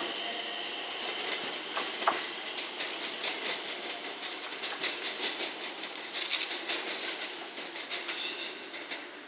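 JR West 227 series electric train running along the track, its wheels clacking over the rail joints, fading as it moves away.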